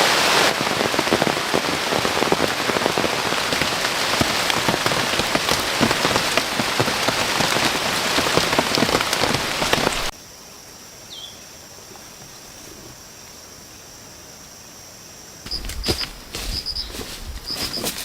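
Heavy rain pattering on forest foliage, which cuts off abruptly about ten seconds in. A quiet stretch follows with a steady high-pitched hum and one short chirp, then near the end a run of knocks and low thumps mixed with short high chirps.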